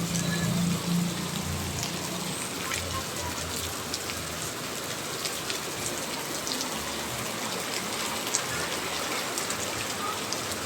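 Steady rain falling, with scattered sharp drop ticks. A low hum fades out about two seconds in.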